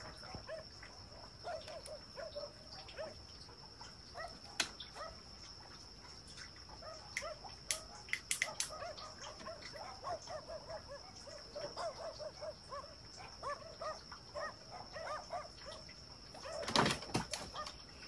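Outdoor ambience with many soft, short bird or fowl calls and a steady high-pitched tone underneath. There are a few sharp clicks or knocks in the middle and a louder burst of noise near the end.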